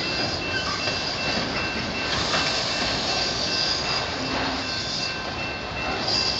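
Freight train of autorack car carriers rolling past close by: a steady rumble and rail noise, with a faint, steady high-pitched squeal from the wheels.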